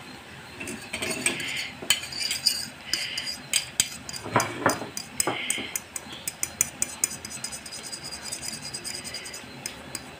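Spoon clinking and scraping against a dish while mixing oil and food colouring into potatoes. A few louder knocks come first, then a fast run of light clinks in the second half.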